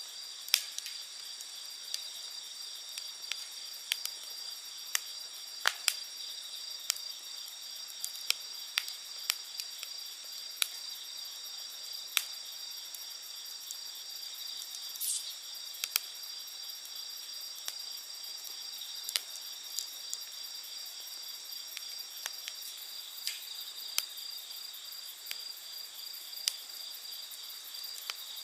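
Wood burning in an open campfire, crackling with sharp irregular pops about once a second, over a steady high-pitched chirring of night insects.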